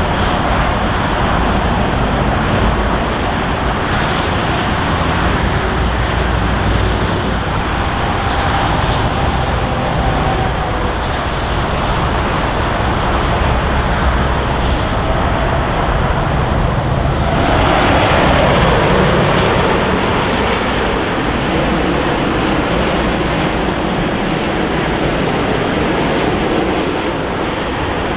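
Jet engine noise from a wide-body airliner, a Boeing 777 freighter, as a dense, steady rush with a deep rumble underneath. About two-thirds of the way through it cuts to a different jet airliner, a Boeing 787-9, and the sound briefly swells louder.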